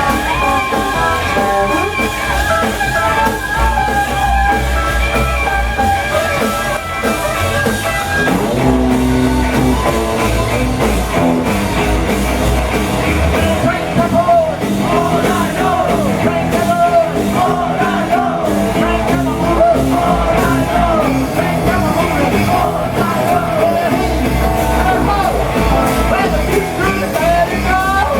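Rock and roll band playing, with electric guitar and a steady beat, and singing.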